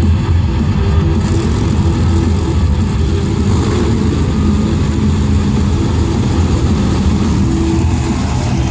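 Monster truck engine running loud with a steady, deep rumble.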